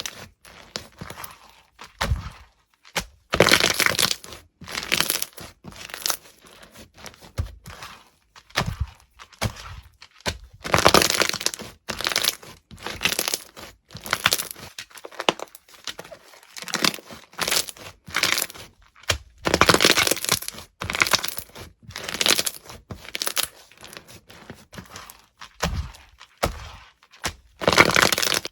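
Crunchy slime being pressed and squeezed, crackling and crunching in irregular bursts, with a few longer stretches of dense crackle.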